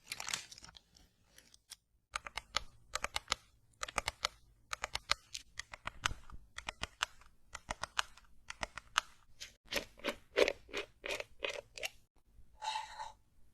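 ASMR sound effects: a run of sharp, crisp crunching and scratching clicks, then a short hissing burst near the end.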